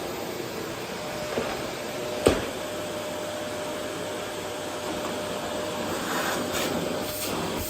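Vacuum cleaner running steadily with a constant whine over its rushing air, and a sharp knock a little over two seconds in.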